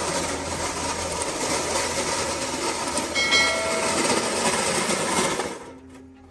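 A large diesel truck engine running loudly with a rushing, hissy noise and a low steady hum, fading out about five and a half seconds in. A brief tone sounds over it about three seconds in.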